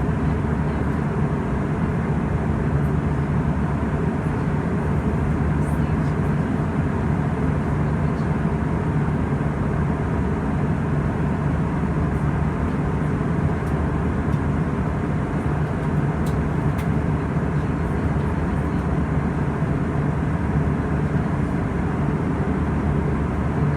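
Steady cabin noise inside an Airbus A320: an even drone of engines and rushing air with a low hum, holding level throughout.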